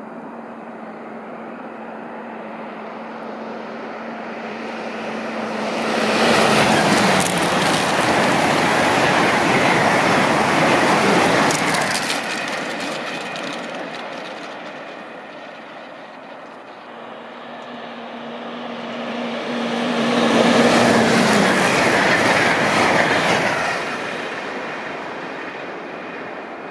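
Two high-speed trains passing at speed, one after the other. Each builds to a loud rush of wheels on rail and air, with a steady hum that drops in pitch as the train goes by, then fades away.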